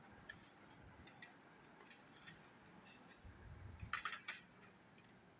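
Faint, scattered light clicks and taps, with a quick run of several sharper clicks about four seconds in.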